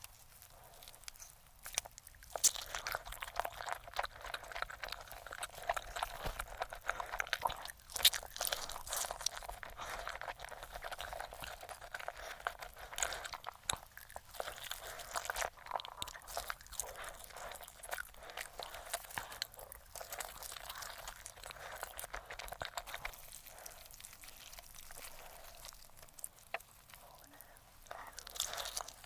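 Close-miked chewing of roast chicken: dense, irregular crunching and crackling with sharp louder bites now and then. It starts after about two quieter seconds.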